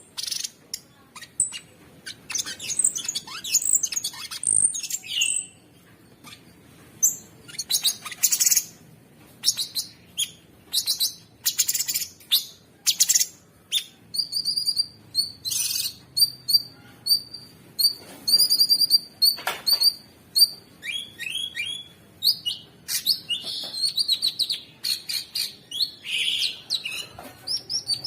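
Cucak sungkok singing a busy, rough song of rapid chirps, trills and whistles, with a run of short, evenly repeated notes in the middle.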